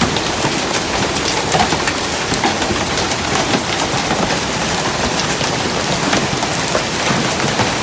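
Hailstorm: large hailstones, marble- to half-dollar-sized, and rain pelting down, a dense, steady clatter of countless small impacts.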